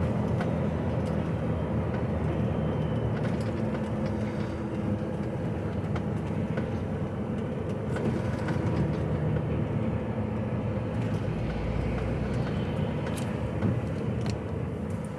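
HGV truck's diesel engine running steadily, heard from inside the cab, with a few light clicks near the end.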